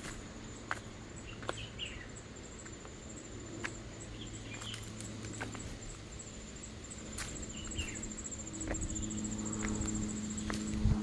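Insects, crickets or cicadas, trilling steadily on one high note, with scattered footsteps crackling on a dry trail and a few short bird chirps.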